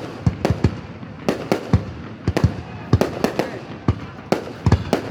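Fireworks going off: an irregular string of sharp bangs, about four a second, over a continuous rumble.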